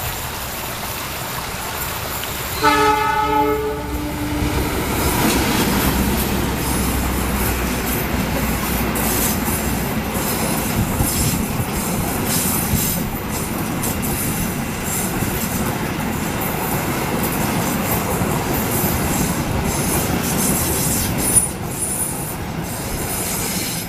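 Diesel-hauled passenger train passing close by: a short horn blast about three seconds in, then the locomotive's low engine rumble going past. After that come the coaches, wheels rolling and clicking over the rail joints, with a high wheel squeal toward the end.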